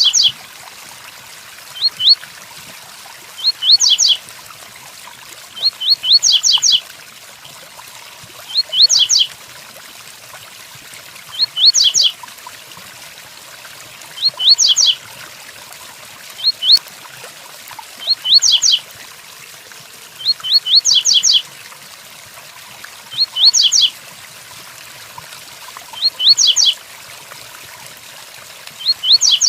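Double-collared seedeater (coleiro) singing its 'tui tuí' song: short phrases of two to four quick, high, downward-slurred whistles, repeated every two to three seconds. Steady rain hiss runs underneath.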